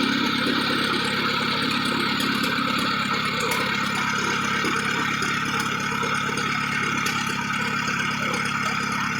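Oliver Chilled Plow Works tractor engine running steadily at idle.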